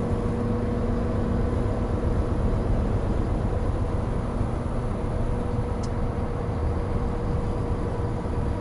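Hino Profia heavy truck driving at a steady pace: a constant deep diesel engine drone and road noise with a steady hum.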